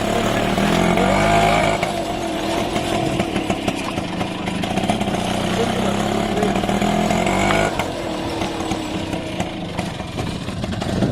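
Auto-rickshaw engine running while riding, with its pitch and level shifting about two seconds in and again past the middle.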